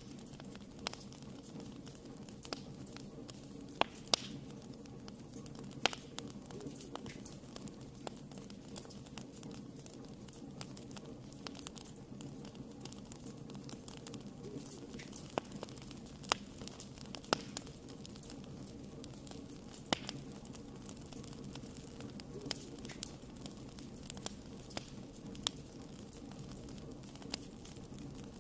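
Wood fire burning in a fireplace: a steady low rushing of the flames with irregular sharp pops and crackles, a few louder snaps among them.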